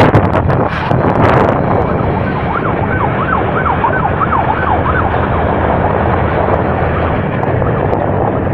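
Steady rumble of a moving train, with wind buffeting the microphone for the first second and a half. From about two seconds in, a warbling siren-like tone rises and falls about twice a second for some three seconds over the rumble.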